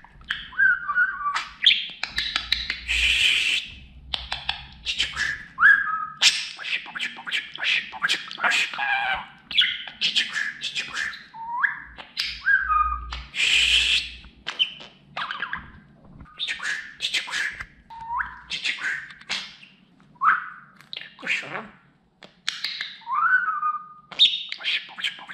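Male budgerigar warbling and chattering: a rapid, busy string of chirps, clicks and short gliding whistles, with scratchy raspy stretches mixed in.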